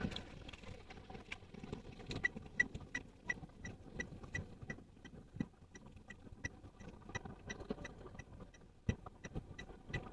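Toyota Wigo's turn-signal indicator ticking steadily about three times a second, starting about two seconds in, as the car signals a left turn. Low cabin road and engine noise runs underneath.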